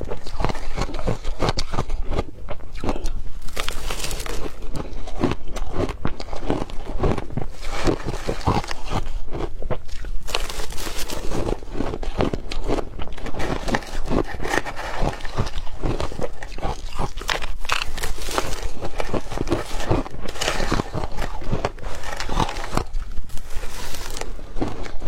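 Hard crushed ice being bitten and chewed close up, a dense run of crunches and crackles that goes on without a break.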